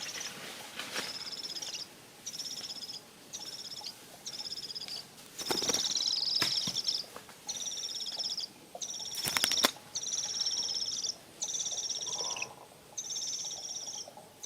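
Parrot giving a series of about ten harsh, rasping calls, each half a second to a second long with short gaps between them. A few sharp knocks come near the middle.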